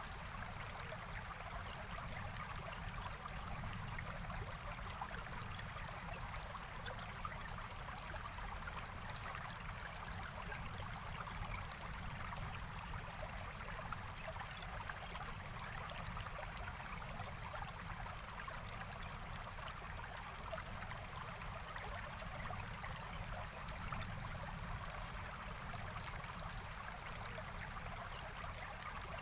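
Forest stream flowing, a steady rush and trickle of water.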